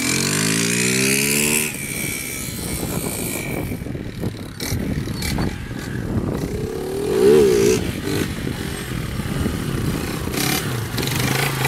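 Honda CG 160 single-cylinder four-stroke motorcycle engine pulling away with rising revs, then fading as the bike rides off. About seven seconds in comes a sharp rev that rises and falls, the throttle blip that lifts the front wheel into a wheelie. Near the end the engine holds a steady note.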